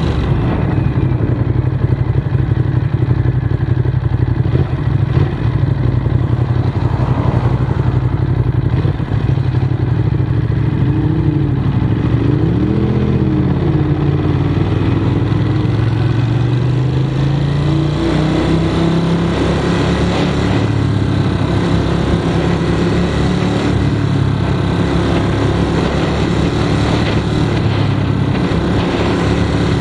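Ducati Monster's V-twin engine running under way at road speed. Its pitch wavers in the middle and climbs a little over halfway through as the bike accelerates.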